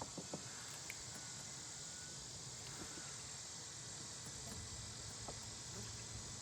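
A small fan running steadily, a constant hiss over a low hum, with a few faint clicks.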